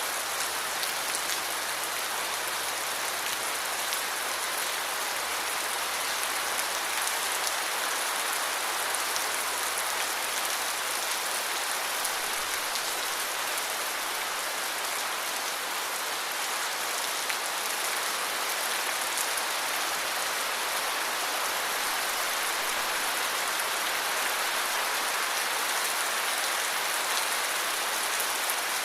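Steady rain falling and pattering on surfaces, an even, unbroken hiss of many small drops.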